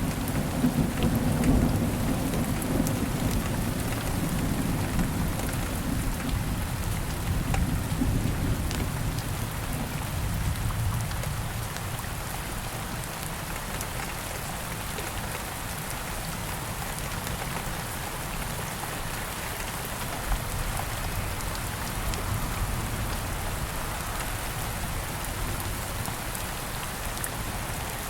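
Steady rain falling, with a low roll of thunder that is loudest in the first few seconds and fades away by about ten seconds in. Scattered small ticks and crackles sound over the rain throughout.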